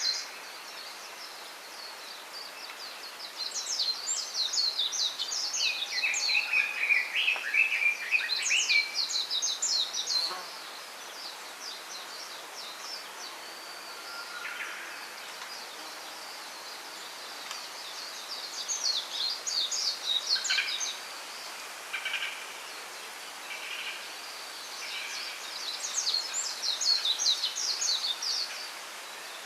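Small songbirds singing: bursts of rapid, high twittering about two seconds long, repeated four times, with a lower warbled phrase and a few short single notes between them, over a steady background hiss.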